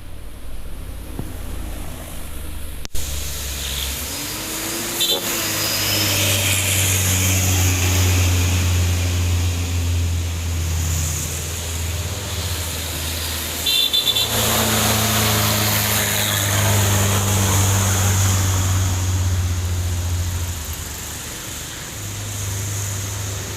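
Hino 500 dump truck's diesel engine pulling hard up a steep climb: a steady low drone that grows louder about five seconds in, changes pitch about fourteen seconds in, and falls away near the end.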